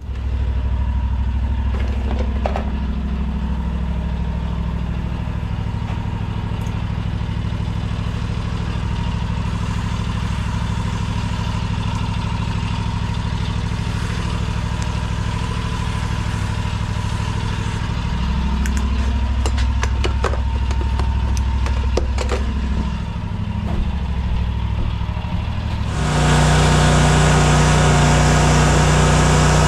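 An engine starts up right at the beginning and runs steadily. About two-thirds of the way through its speed shifts up and down. Near the end a louder, hissier running sound with a higher engine note takes over.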